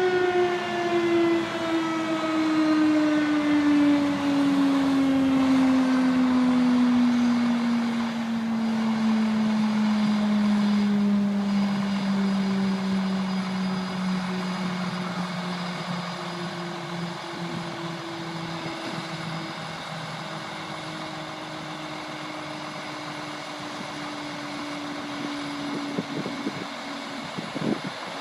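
Fire engine's mechanical siren winding down, its pitch falling slowly over about fourteen seconds as it coasts to a stop. A fainter steady tone carries on afterwards, with a few knocks near the end.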